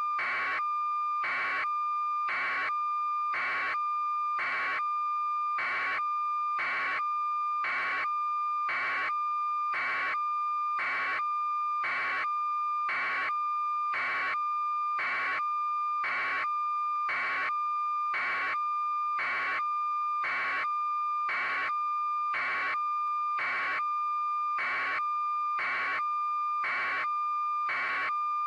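A steady, unbroken electronic tone with a short beep-like pulse repeating evenly about one and a half times a second, at an unchanging level.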